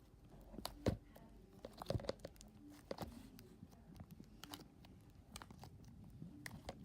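Glittery slime being poked and squeezed by hand, giving scattered quiet pops and crackles.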